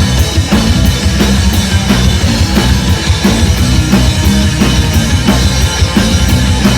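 Live rock band playing: a drum kit keeping a steady, fast beat over bass and guitar, loud and dense.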